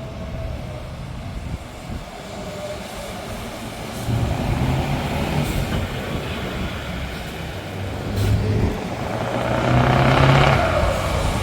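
Open-piped V8 truck engine rumbling, growing louder about four seconds in and again near the end, when a rev spreads into a broad roar.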